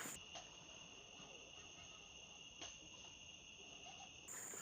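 Crickets trilling faintly in one steady high tone, with a single soft click about two and a half seconds in.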